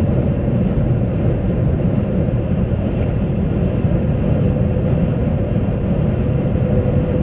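Semi truck driving at road speed: a steady drone of engine and tyre rumble, with a faint steady hum running through it.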